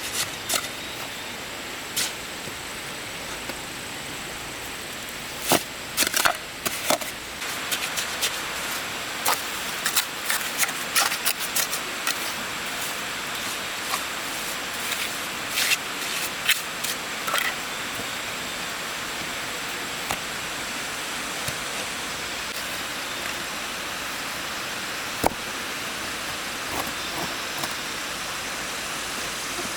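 Irregular sharp knocks and clacks of hard materials being handled, coming thick and fast through the first half, with a single last knock later on, over a steady hiss.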